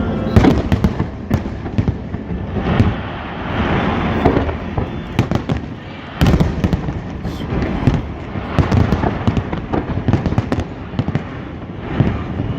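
Fireworks display: aerial shells bursting in rapid succession, a steady run of bangs with the loudest about six seconds in.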